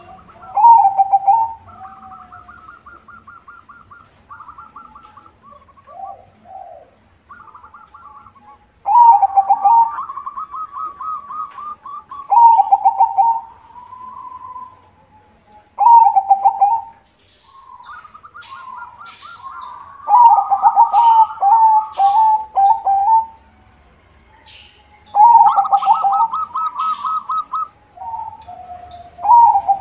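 Zebra dove (perkutut) of the white colour morph singing its rolling, purring coo in about six loud phrases separated by short pauses, with fainter cooing in between.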